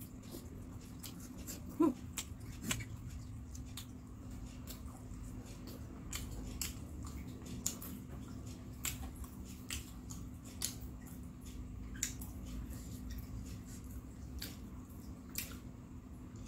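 Close-up chewing of fried gorengan snacks with the mouth closed: soft wet mouth clicks and smacks, a few each second, over a steady low hum. About two seconds in there is a short voiced 'mm'.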